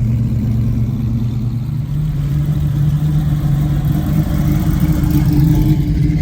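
Car engine running close by, steady, its pitch stepping up slightly about two seconds in.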